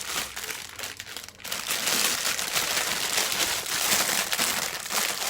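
Packaging crinkling and rustling with many small crackles as a welding machine's negative earth cable and clamp is unwrapped, busier and louder from about one and a half seconds in.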